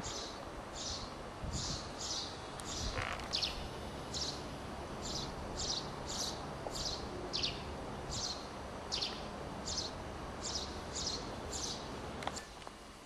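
A small bird chirping over and over, about two short high chirps a second, some sliding down in pitch, over a steady low rumble of outdoor noise. The chirping breaks off with a click about twelve seconds in.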